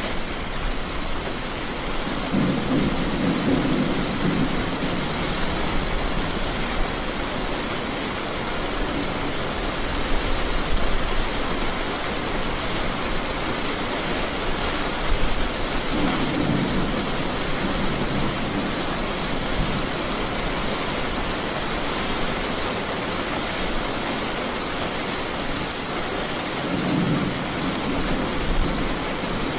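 Steady rain falling, with thunder rumbling low three times: a few seconds in, midway, and near the end.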